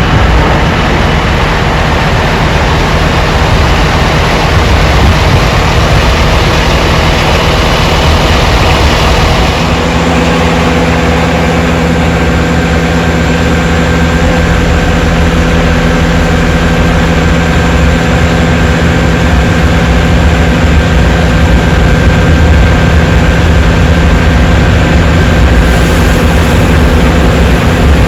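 Aircraft engines running steadily, a loud low rumble with a constant whine. About ten seconds in, the mix of tones shifts and a higher whine sets in.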